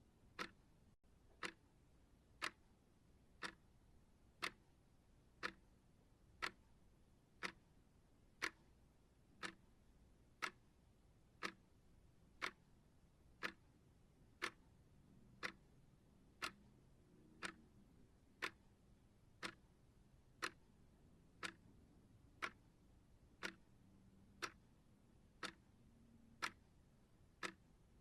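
Steady ticking of a timer, one sharp tick every second, evenly paced.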